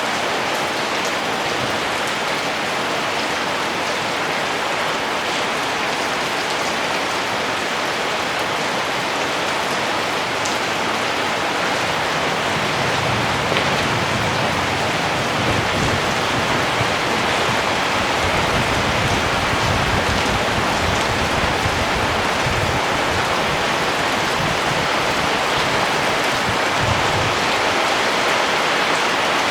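Steady rain falling on surfaces, with scattered separate drop ticks. A low rumble comes and goes through the second half.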